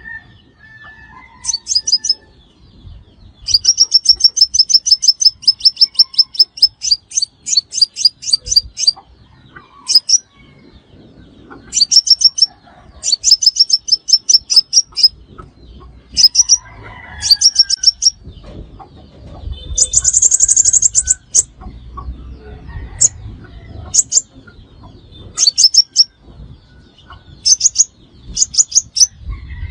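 Sunbird song: short bursts of rapid, high, sharp chips run together into quick trills, repeated every second or two, with one harsher, buzzier burst about two-thirds of the way through.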